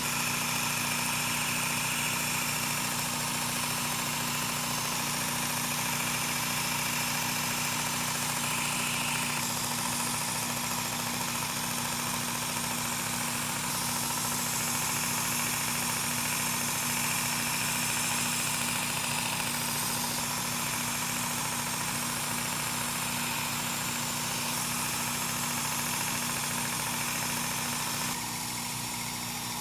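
Work Sharp Ken Onion Edition electric belt sharpener running steadily, its motor humming under the hiss of the abrasive belt grinding a chef knife's edge. A higher grinding tone comes and goes every few seconds, and the sound gets slightly quieter near the end.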